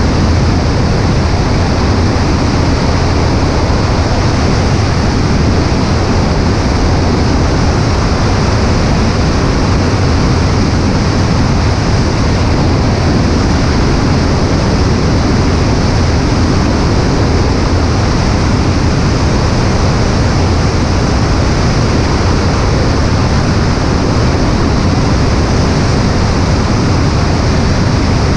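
Cessna 140A in flight, heard from a wing-mounted camera: a loud, steady rush of airflow mixed with the low drone of the engine and propeller, unchanging throughout.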